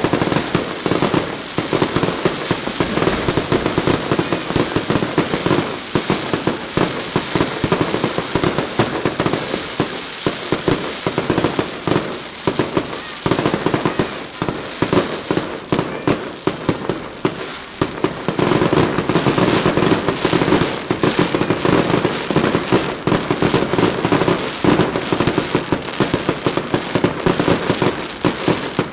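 Daylight fireworks barrage: a dense, unbroken rattle of rapid firecracker bangs with no pause, growing heavier again about two-thirds of the way through.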